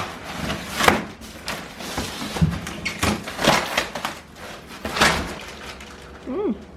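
A plastic water tank being handled: a series of sharp knocks and thuds with scraping and rustling between them, and a short squeak near the end.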